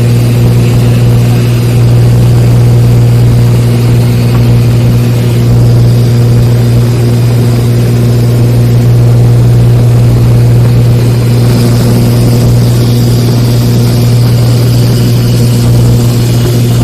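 An engine running steadily at a constant pitch: a loud, unchanging low drone with overtones.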